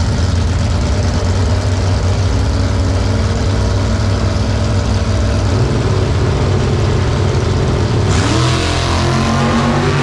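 A drag-racing car's engine running at the starting line, then going to full throttle about eight seconds in as the car launches down the strip, much louder, with its note climbing.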